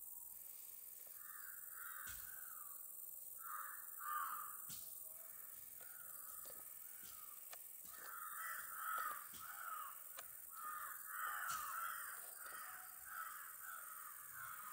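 Birds calling over and over in short, harsh calls, sparse at first and coming thick and fast in the second half, with a few faint clicks.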